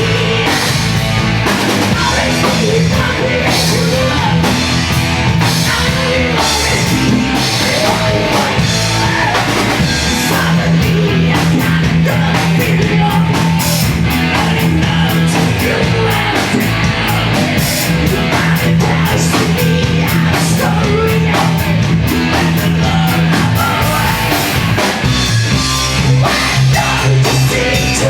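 Live screamo/post-hardcore band playing loud, distorted rock: electric guitars, bass and a drum kit with dense cymbal hits, with sung and yelled vocals at times.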